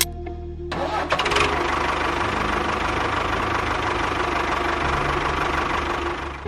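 Small engine of a DIY mini construction vehicle starting up about a second in, then running steadily. It cuts off just at the end.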